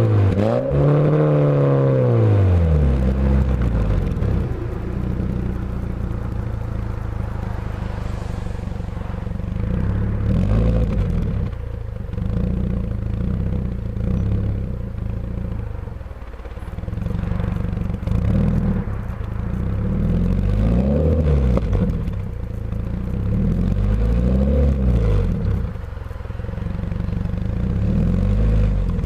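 Scion FR-S 2.0-litre flat-four exhaust through a Tanabe Concept G Medallion cat-back: the revs fall back to idle over the first few seconds, then it idles steadily with several short throttle blips that rise and fall in pitch.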